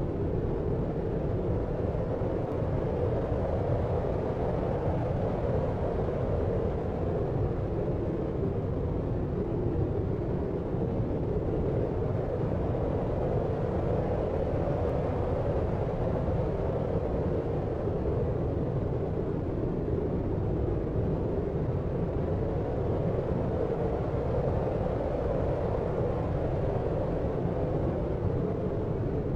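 Steady, unchanging deep noise of the brown-noise kind used for sleep masking: a low rumble with most of its weight in the low and lower-middle range, little hiss on top, and no separate events.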